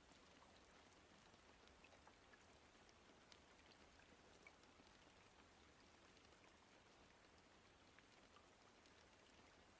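Faint rain-sound ambience: a steady hiss of rainfall with scattered small drop ticks.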